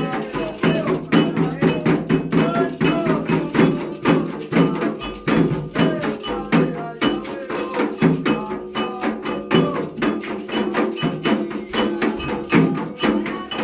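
Candomblé ritual music: hand drums and a struck bell play a fast, even rhythm under voices singing.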